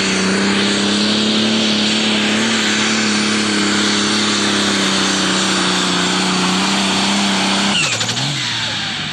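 Turbocharged diesel engine of a Pro Stock pulling tractor running flat out at a steady high pitch under full load while dragging the sled. About eight seconds in, the pitch falls sharply as the engine comes off power at the end of the run.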